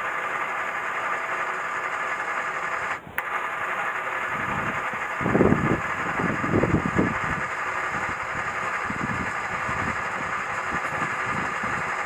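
The engine of a power carrier runs steadily while driving its winch to hoist a log. The sound dips briefly about three seconds in, and there are low rumbling bumps between about five and seven seconds in.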